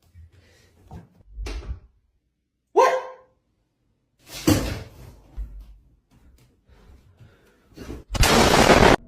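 A door being worked: soft knocks, a short squeak of the hinge that drops in pitch, then a loud bang about four and a half seconds in. Near the end comes a loud, harsh scraping noise lasting about a second.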